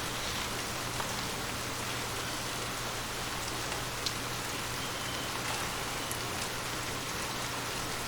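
Steady rain falling, with a few sharper drip ticks standing out, the clearest about four seconds in. A faint steady low hum runs underneath.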